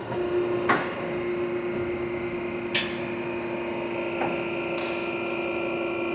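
Electric hydraulic pump motor of a vehicle lift switching on and running steadily with a constant hum as the truck is raised, with a few sharp clicks from the lift along the way.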